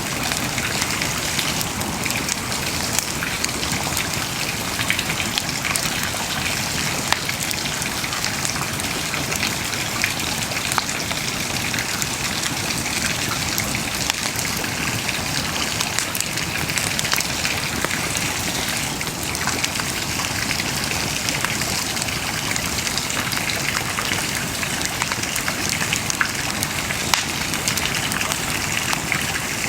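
Wood bonfire burning, a steady hiss with frequent small crackles and pops throughout.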